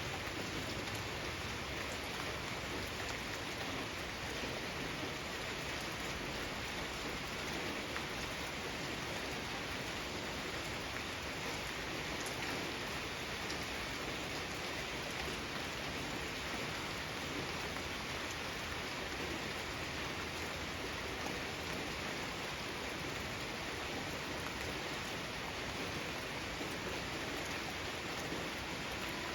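Steady rain falling, an even hiss that never lets up, with scattered faint drop ticks.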